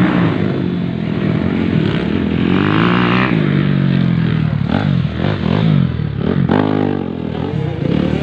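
Several motocross bikes' engines revving together, their pitch climbing and dropping again and again as the riders work the throttle and shift.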